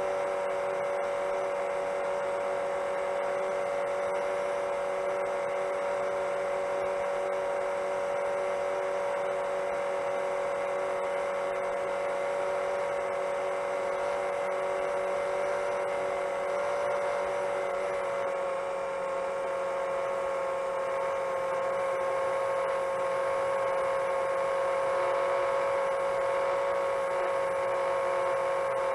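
Long-range 7-inch FPV quadcopter's brushless motors and propellers whining at a steady cruise throttle. The pitch dips slightly about two-thirds of the way through, and the sound then grows a little louder.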